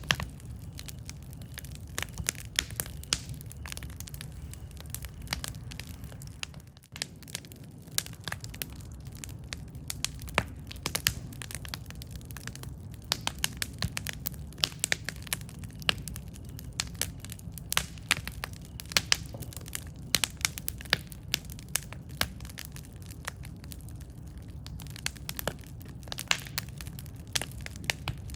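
Campfire burning with a steady low rumble of flames and frequent sharp crackles and pops of burning wood, some much louder than others.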